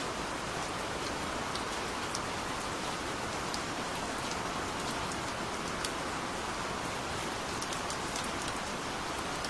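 Steady gentle rain: an even wash of rainfall with scattered individual drop ticks.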